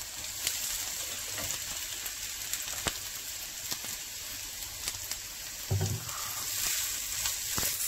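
Onion, garlic and red chillies sizzling steadily in hot oil in a non-stick pan as grated coconut is added and stirred in with a wooden spatula. There are a few light clicks of the utensils against the pan, and a brief low thump about six seconds in.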